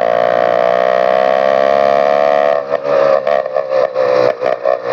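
Motorized bicycle engine with only a bare exhaust pipe, running hard with a loud, steady buzzing note that sinks slightly in pitch. About two and a half seconds in, the sound turns choppy, cutting in and out in quick dips.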